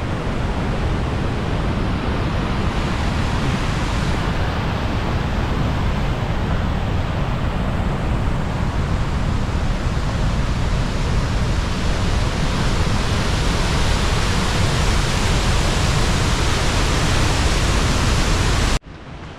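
High Force waterfall on the River Tees in spate, swollen with rain and snowmelt: a steady, loud rush of falling water. It cuts off abruptly near the end.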